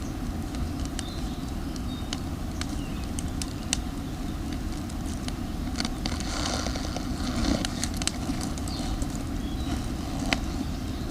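Campfire of damp firewood crackling, with sharp pops at irregular moments over a steady low rumble.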